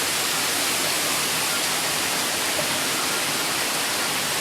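Heavy torrential rain pouring down in a steady, loud hiss.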